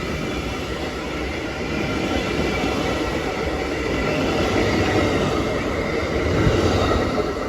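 Amtrak Wolverine passenger train passing, a steady rumble of wheels on the rails that builds to its loudest about six and a half seconds in and then starts to fall away.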